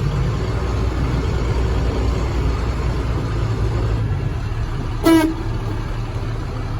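A 2004 International truck's engine running steadily while driving. About five seconds in, a short, loud, horn-like toot cuts through it.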